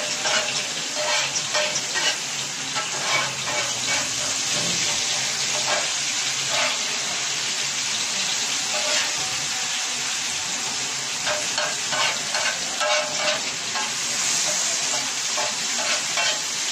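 Onions, tomatoes and spices sizzling on a hot tawa griddle while spatula blades stir and chop through them, clacking and scraping on the griddle surface. The clacking is busiest in the first half and again near the end, with a stretch of steadier sizzle in between.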